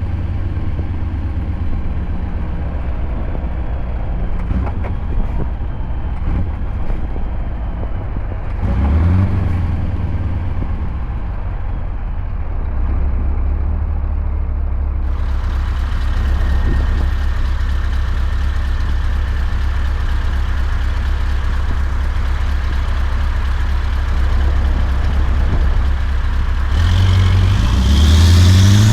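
Scania V8 diesel truck engine running steadily under load on the road. The revs rise briefly about nine seconds in and climb again near the end as it pulls.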